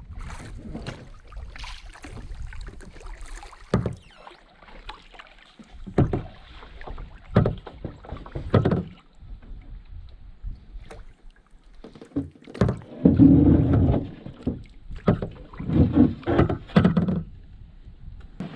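Pack canoe being paddled: irregular paddle strokes and water sloshing, with sharp knocks of the paddle or gear against the hull. The loudest strokes come in a cluster a little past the middle and again near the end.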